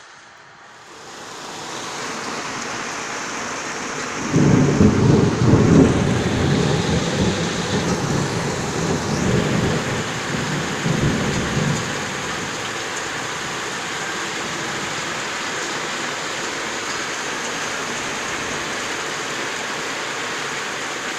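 Heavy thunderstorm rain hissing steadily, building up over the first couple of seconds. About four seconds in, a loud, long roll of thunder rumbles for some eight seconds, then the rain carries on alone.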